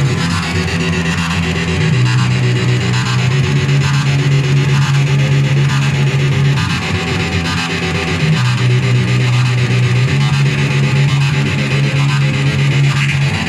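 Noise music: a loud, distorted low drone that steps up and down in pitch every few seconds, under a dense buzzing hiss.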